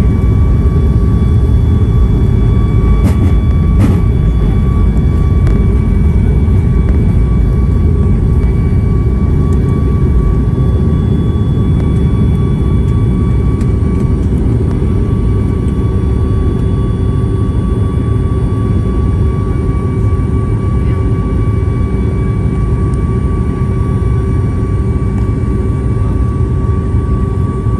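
Jet airliner engines during takeoff, heard from inside the cabin: a loud, steady rumble with a steady high whine over it. Two brief clicks come about three and four seconds in.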